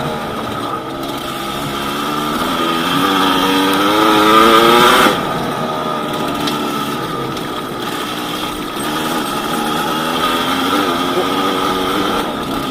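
Yamaha DT200WR's two-stroke single-cylinder engine running under way: its pitch rises for a few seconds as it accelerates, drops off suddenly about five seconds in, then runs steadier with smaller rises and falls.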